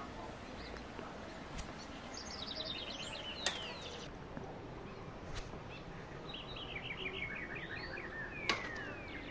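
Outdoor ambience with a songbird singing twice, each phrase a quick run of repeated chirping notes that ends in a downward slur. A few sharp clicks are scattered through, the loudest near the end of each phrase.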